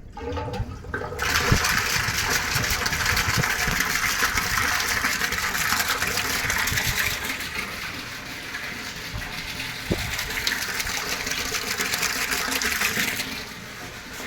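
Water gushing steadily, starting about a second in and cutting off near the end.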